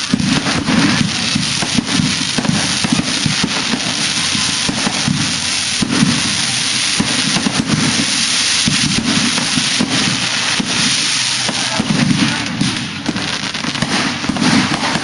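Fireworks going off in rapid succession: a dense, continuous run of bangs and crackling with no pause.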